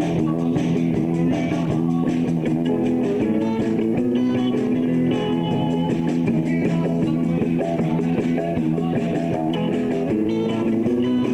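Live rock band playing an instrumental passage with no singing, led by electric guitars over bass.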